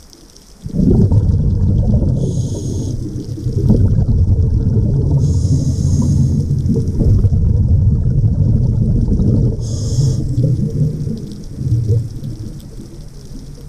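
A diver breathing through a regulator underwater. The exhaled bubbles make a loud, low rumble starting about a second in and easing off near the end, with three short hissing inhalations through the regulator.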